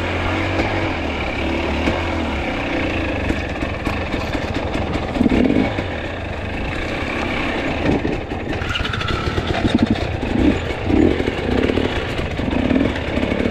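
Two-stroke enduro dirt bike engine running steadily, then given a series of short throttle bursts from about five seconds in.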